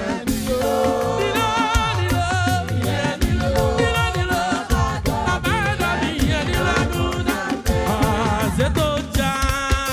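Live African gospel praise music: a band playing a fast dance beat with drums, under a lead melody of voice or keyboard.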